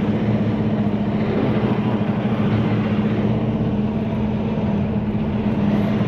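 Semi-truck diesel engine running steadily as the truck creeps along at low speed, heard from inside the cab.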